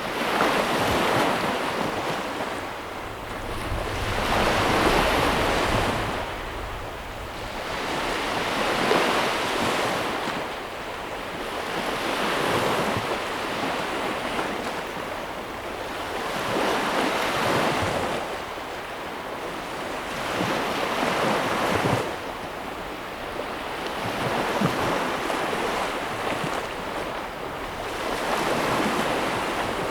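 Ocean waves breaking and washing up onto the shore, a steady rushing surf that swells and fades about every four seconds.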